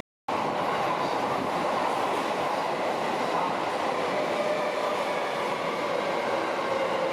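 Electric subway train running at an underground platform: a steady running noise with a faint motor whine that slowly drops in pitch, after a brief gap at the start.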